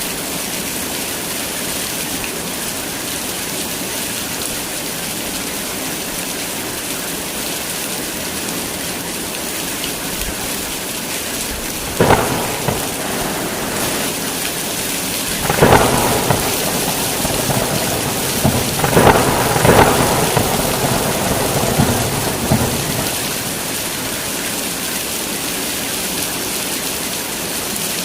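Heavy rain falling steadily, with a sudden thunderclap about twelve seconds in and several rolls of thunder over the following ten seconds.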